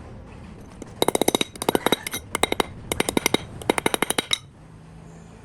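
Rapid metallic clicking from a hand tool, in several short bursts of quick ticks that start about a second in and stop a second before the end.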